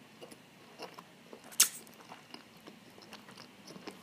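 Close-miked chewing and wet mouth sounds of a person eating, with many small clicks and one sharp click about a second and a half in.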